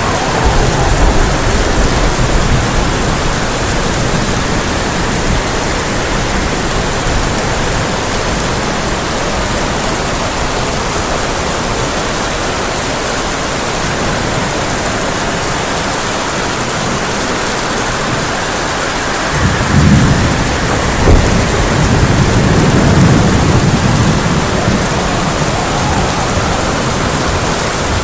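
Heavy rain drumming on a tin roof as a steady hiss, with thunder rolling: a low rumble at the start and a louder one about twenty seconds in, with a sharp crack partway through it.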